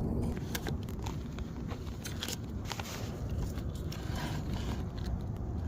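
Close handling noises: scattered clicks, knocks and scrapes over a steady low rumble.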